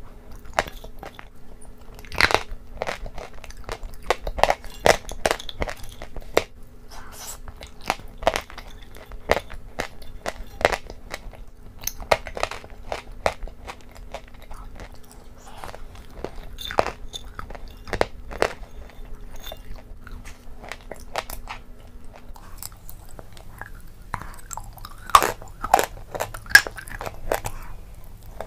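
Close-miked chewing and crunching of food, with frequent sharp crunches between softer mouth sounds. About 22 seconds in, a faint background hum drops away, and near the end the crunches come louder and closer together.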